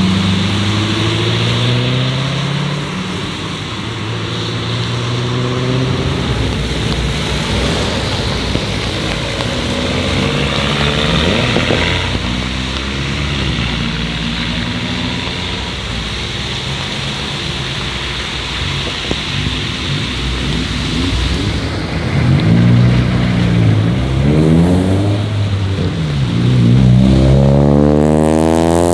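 Cars pulling away one after another on a wet road: engine notes rising and falling through the gears over a steady hiss of tyres on wet tarmac. A Corvette's V8 accelerates near the start, and several cars rev up in quick succession near the end.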